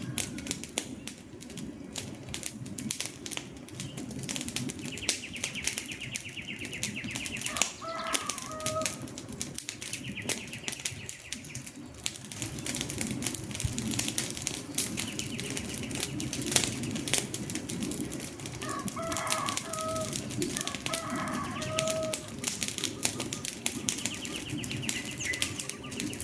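Wood fire burning, crackling and popping continuously over a low rumble of the flames, with a few short bird calls in the background.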